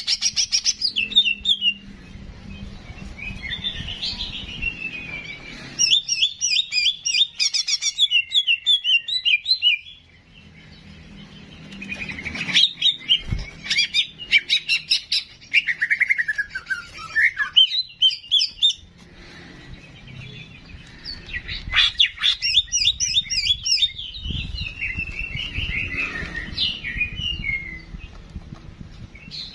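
Cucak jenggot (grey-cheeked bulbul) singing: bursts of rapid, sharp chattering notes, some slurring downward, delivered in phrases of a few seconds separated by short pauses, as in a song-tutor recording.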